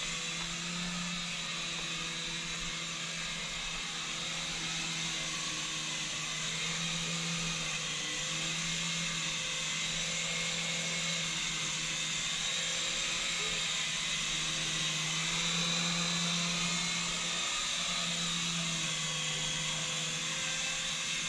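Syma S107G mini RC helicopter in flight: its small electric motors and coaxial rotors give a steady buzzing whine whose pitch wavers slightly up and down as the throttle changes.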